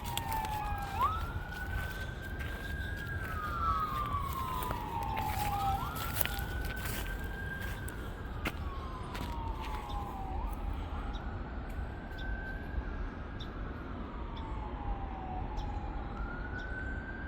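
Emergency vehicle siren wailing, its pitch climbing quickly, holding briefly, then sliding slowly down, once about every five seconds.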